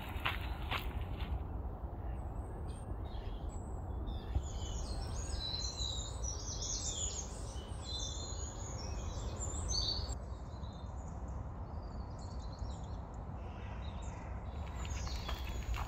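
Small birds chirping and singing for several seconds in the middle, over a steady low rumble. Footsteps on a gravel path are heard at the start and again near the end.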